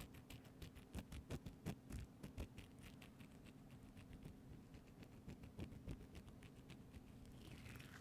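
Rapid, irregular light tapping and clicking close to the microphone, with a few louder taps between about one and two and a half seconds in. A soft rubbing begins near the end.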